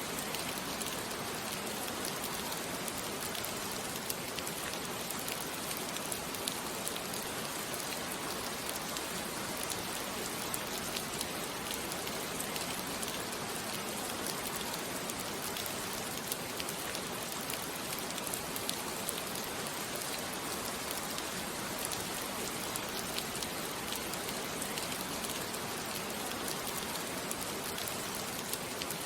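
Steady rain falling, an even patter of many small drop ticks, the rain backdrop laid under a sleep-story recording.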